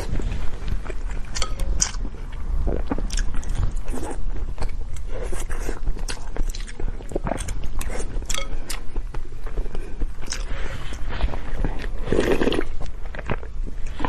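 A person chewing and biting food close to the microphone, with many small irregular wet clicks and smacks and a louder one about twelve seconds in, over a steady low hum.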